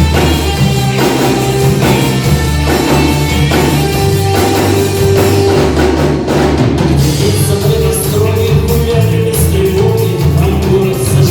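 A rock band playing live: drum kit, bass and guitar in a steady rhythm, with little or no singing.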